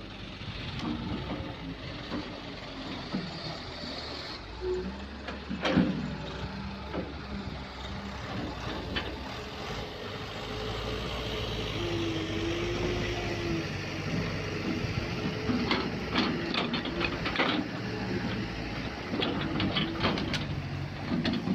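Kobelco excavator's diesel engine running steadily while digging, with a sharp knock about six seconds in and a run of metal clanks and knocks in the last several seconds.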